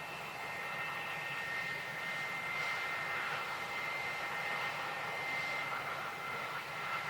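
Airbus A320-232's IAE V2500 jet engines running steadily: a high whine of several steady tones over an even rush.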